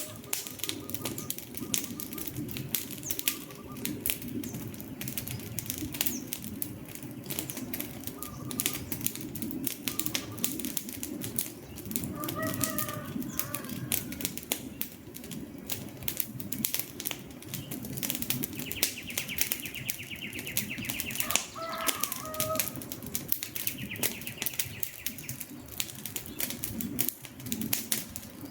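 A wood campfire crackling with dense, irregular pops and snaps over a steady low rumble of flame. A chicken clucks briefly at about 12 seconds and again at about 22 seconds, and a high faint trill comes in twice in the second half.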